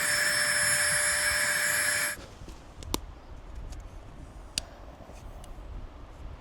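A small electric motor whirs steadily and cuts off abruptly about two seconds in. Two sharp clicks and soft rustling follow.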